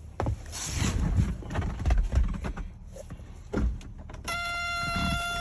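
A cold diesel pickup engine being started: a few thumps and knocks, then about four seconds in a steady running sound with a high whine begins and holds. The engine is starting from fully cold, at about 51 degrees, and catches right away.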